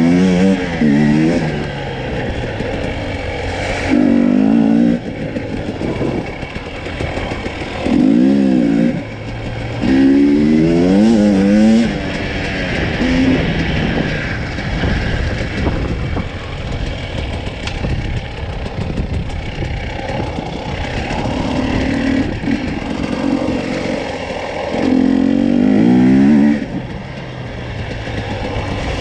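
Husqvarna TE250i two-stroke enduro motorcycle engine. It revs up and back down in about half a dozen short bursts of throttle, each lasting about a second, and runs lower and rougher in between.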